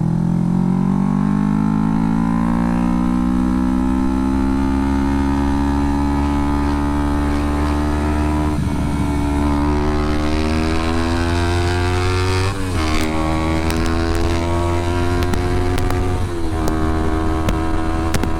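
2011 Kawasaki Ninja 250R's parallel-twin engine running under way, its revs climbing steadily. There are three short dips in pitch in the second half.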